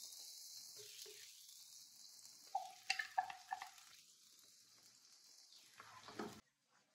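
Tomato paste frying and sizzling in hot sesame oil in a kadai as a wooden spatula stirs it. A few seconds in come several sharp clinks and a short ring as the spatula scrapes paste off a steel vessel. The sound cuts off suddenly near the end.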